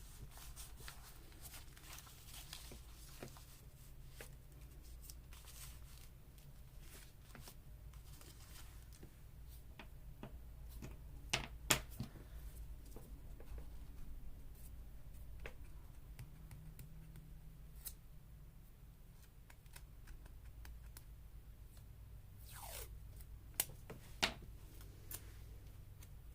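Faint paper and washi tape being handled: soft rustling and small clicks, with two pairs of sharper clicks about halfway through and again near the end, over a steady low hum.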